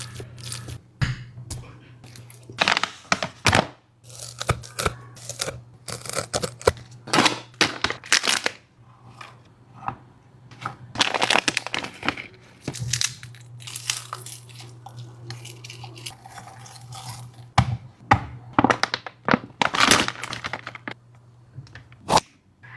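Dog eating, with irregular crunching, tearing and crinkling sounds of food being bitten and chewed. A low steady hum runs underneath.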